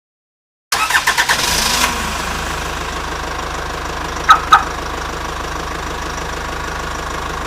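Engine sound effect: an engine cranks with a quick run of pulses, catches and settles into a steady idle with an even low throb. Two short, sharp chirps come about halfway through, and the sound cuts off suddenly near the end.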